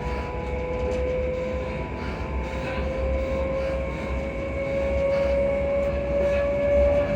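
Class 334 electric multiple unit heard from inside the carriage: a steady low running rumble with an electric traction motor whine that rises slowly in pitch as the train gathers speed.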